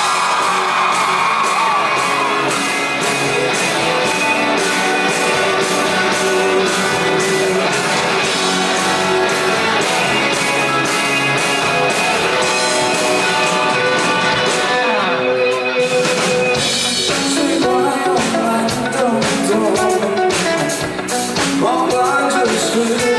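Rock band playing live, with a singer, guitars and a steady drum beat. The vocal line comes in at the start and again in the last few seconds.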